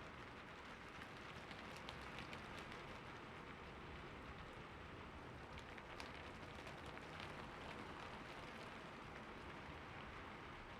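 Soft, steady rain falling in a city, with scattered sharper ticks of individual drops.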